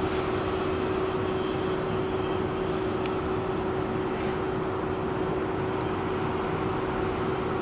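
Double-stack intermodal container train rolling away around a curve: a steady rumble of wheels on rail with a constant hum running through it.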